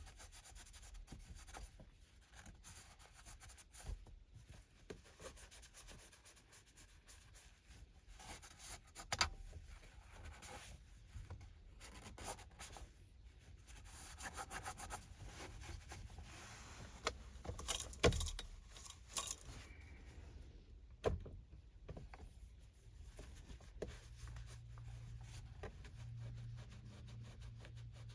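Microfiber cloth rubbing and wiping over car interior surfaces, with a few light knocks. A low steady hum comes in near the end.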